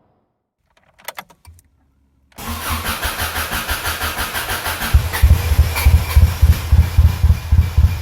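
Rebuilt Subaru Impreza WRX turbocharged flat-four engine's first test start: a few clicks as the key turns, then the starter cranking for about two and a half seconds before the engine catches about five seconds in and runs with a loud, uneven pulsing beat.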